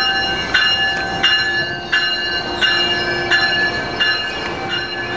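A train bell ringing steadily, about three strokes every two seconds, over the sound of a Metrolink train moving through the station.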